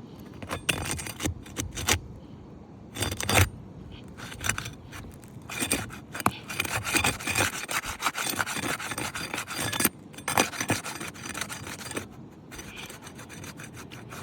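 Sealed asphalt roof shingle being worked loose by hand: irregular scraping and rasping strokes with sharper cracks, the loudest about three seconds and ten seconds in. The shingle tears and sheds its granules as it is unsealed.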